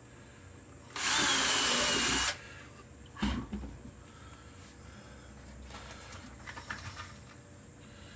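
Power drill with a small bit running in one short burst of just over a second, drilling a pilot hole in cedar for a nail hinge pivot; its whine drops slightly in pitch. A knock follows about two seconds later, then faint handling sounds.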